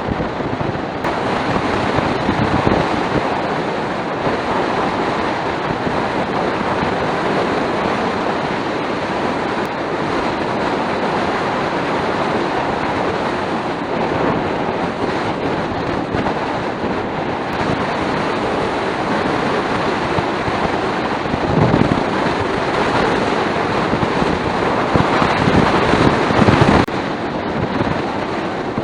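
Steady wind rush over the camera microphone with road noise from a Suzuki Skywave 250 big scooter riding at speed, swelling louder a couple of times near the end.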